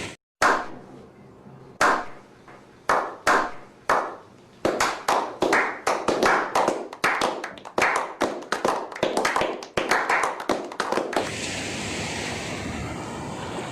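Hand clapping: a few separate claps, then a quick, dense run of claps lasting several seconds, giving way to a steady hiss near the end.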